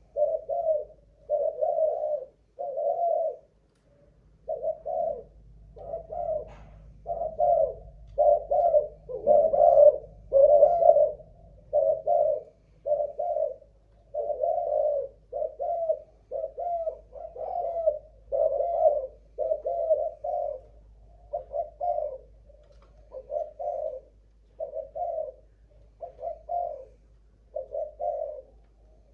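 Malaysian-strain spotted dove cooing in a long, continuous series of short low coos, about one to two a second, with one brief pause a few seconds in.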